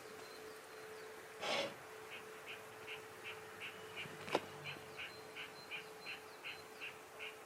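Repeated short high chirps, nearly three a second, from a small calling animal, over a steady low hum, with a brief rustling burst about a second and a half in and a single sharp click near the middle.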